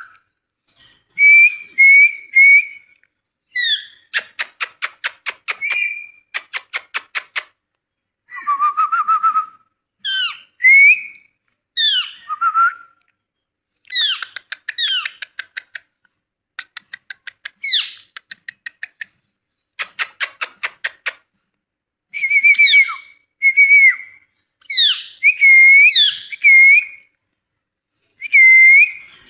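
Ringneck parrot whistling and calling in short swooping notes, broken up by several runs of rapid clicking chatter.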